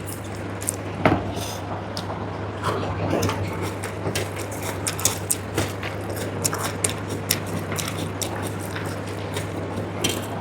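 Close-up eating sounds: chewing with frequent short clicks and small crunches, irregular throughout, over a steady low hum.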